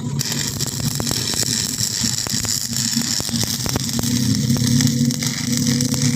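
Arc welding on a steel cultivator frame: a steady crackling hiss with many sharp pops, over a steady low machine hum.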